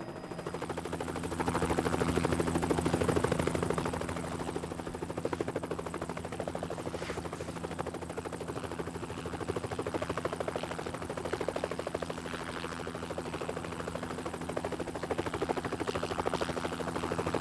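Helicopter flying low overhead: a steady rotor chop over the engine drone, swelling louder a couple of seconds in, then holding steady.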